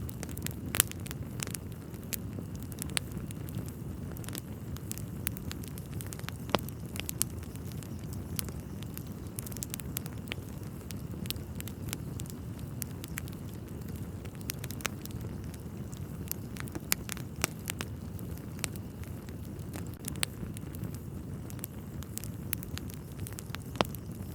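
Wood fire burning in a fireplace, crackling with sharp, irregular pops and snaps over a steady low rumble.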